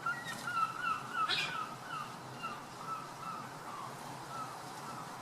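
A bird calling over and over in short, curved notes, about two a second, growing fainter, with one sharp click about a second in.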